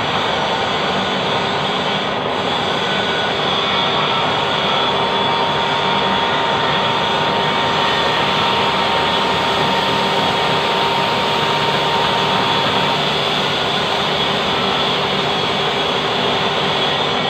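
Lathe running with a steady machine noise and a faint whine that fades out about two-thirds of the way through.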